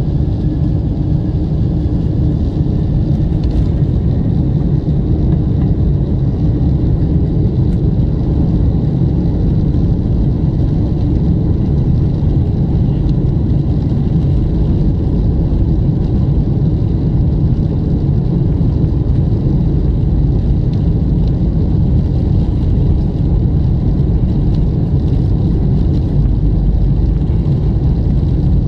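Steady low rumble of a Boeing 747's engines and rushing air, heard inside the passenger cabin, with no change in level.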